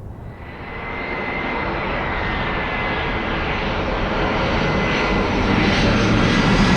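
Airbus A320 jet airliner approaching to land, its engine roar growing steadily louder with a thin high whine running through it.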